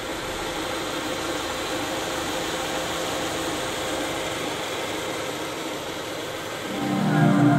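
Steady noise of a car's engine running, an even hiss-like sound with a faint hum. Music comes in loudly near the end.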